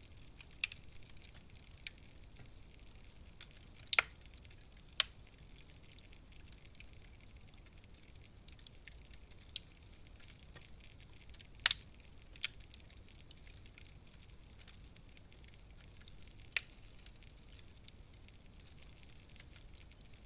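Wood fire crackling in a fireplace: irregular sharp pops and snaps over a soft steady hiss. The loudest pops come about four, five and twelve seconds in.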